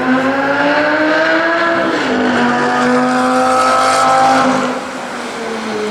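Lamborghini Gallardo V10 engine accelerating hard: the pitch rises, drops sharply with an upshift about two seconds in, climbs again, then falls away quieter near the end.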